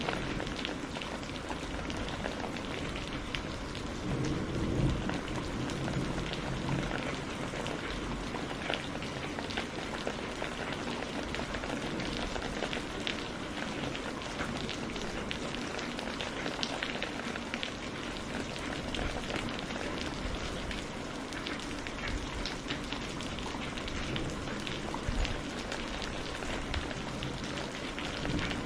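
Steady rain with many close drops pattering on a surface, and a low rumble of thunder swelling about four to seven seconds in.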